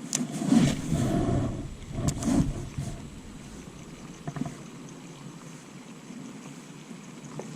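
A few knocks and rustles in the first couple of seconds, then a steady, quiet wash of wind and water noise.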